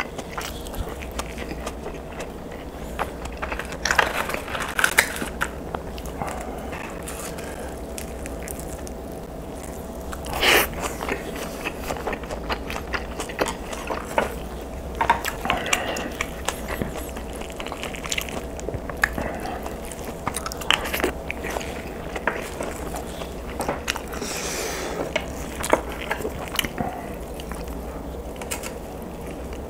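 A person biting and chewing food close to the microphone, with irregular wet clicks and smacks. The food is egg-battered fried pink sausage, rice and kimchi-braised mackerel.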